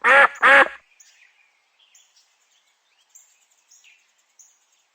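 Duck quacking twice right at the start, loud and nasal. After that only faint, scattered chirps of small birds in quiet background.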